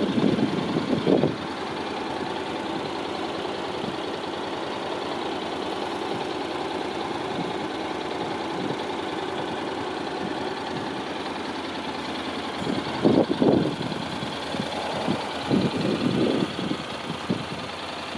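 Honda NC750X's 745 cc parallel-twin engine idling steadily, with a few short louder swells near the start and again from about two-thirds of the way through.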